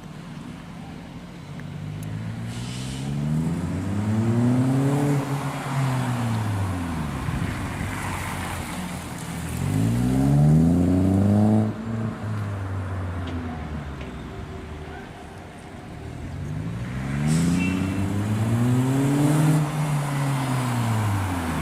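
Audi A1 1.4 TFSI's turbocharged four-cylinder engine, breathing through a full Supersprint exhaust, revved three times. Each time the pitch climbs and falls back; the second rev is the loudest and cuts off sharply.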